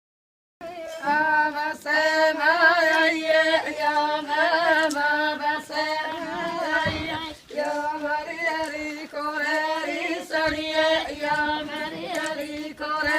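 Music: a woman singing a melody with wavering, ornamented pitch over a steady held drone, starting abruptly about half a second in.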